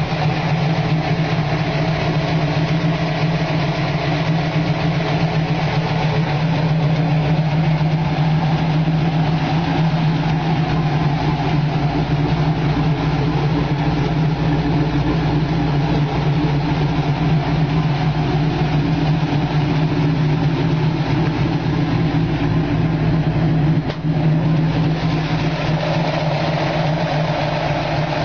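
1967 Ford Mustang GT Fastback's V8 engine idling steadily.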